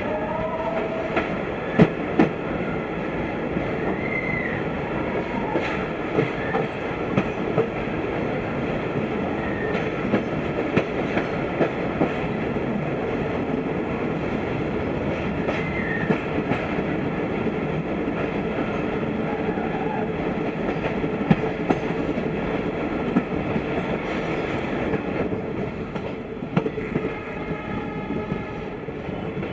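Broad-gauge passenger train heard from on board at low speed: a steady rumble of wheels on rails, with irregular clicks. Short wheel squeals rise and fall in pitch a few times.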